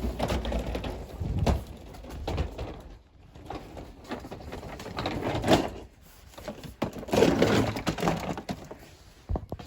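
Irregular knocks, clunks and rustling from a plastic upright vacuum cleaner being handled and moved about, with louder bursts of clatter about halfway through and again a little later.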